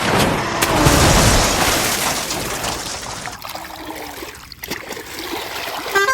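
A sudden loud rush of noise, like a splash or crash, strongest about a second in and fading away over the next few seconds.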